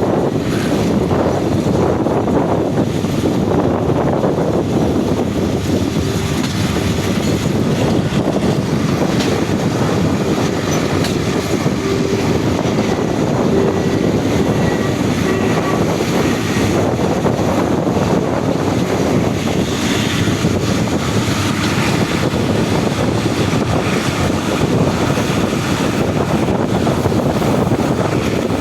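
Rapid passenger train running on the line just after pulling out of a station: a steady, even rumble of wheels and carriages on the track.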